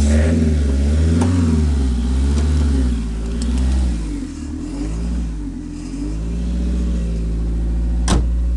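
Car engine running on hydrogen fed into its intake, with its fuel injectors disconnected. Its speed surges up and down unevenly, as if struggling for fuel. One sharp pop comes near the end.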